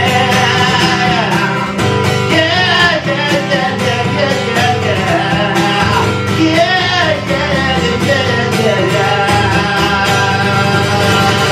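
Live song: guitar with a singing voice.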